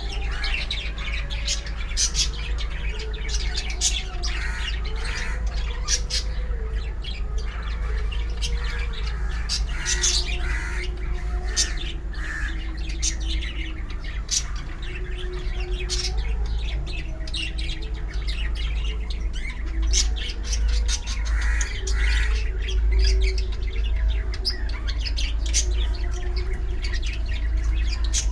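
A group of pet birds chirping and squawking, many short calls overlapping without pause, over a steady low hum.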